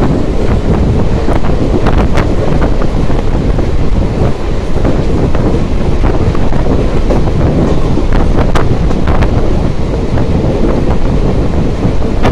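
Wind buffeting the microphone from a moving train's window, over the steady rumble of the train running on the track. A few short, sharp clicks break through now and then.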